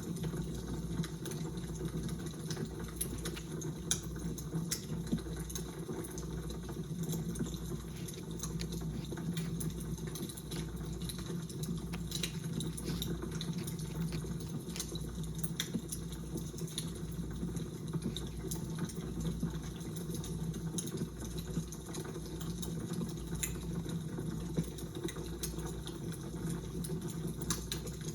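Fire crackling: scattered sharp pops and crackles over a steady low rumble and hum.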